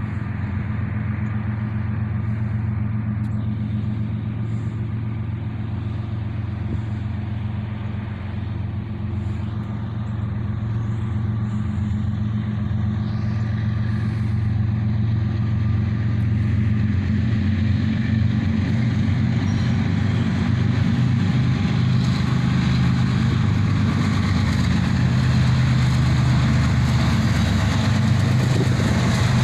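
Diesel locomotive engines of an approaching freight train, a low steady drone that grows gradually louder.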